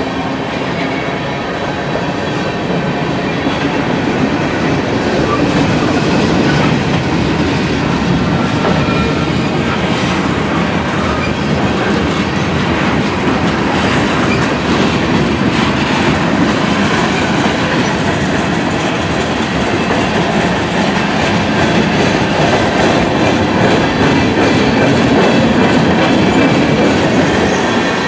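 Freight train cars rolling past, their steel wheels clicking over the rail joints above a steady rumble.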